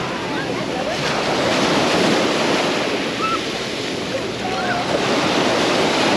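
Sea surf breaking and washing on a sandy beach, a steady rush that swells and ebbs, with faint distant voices of beachgoers mixed in.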